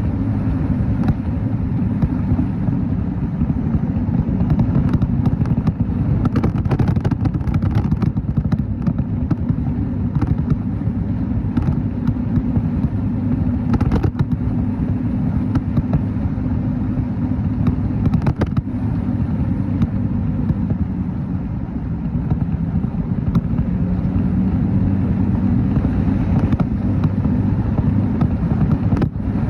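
Motorcycle engine running steadily while riding, a low hum whose pitch shifts slightly with the throttle, with brief clicks and knocks over it.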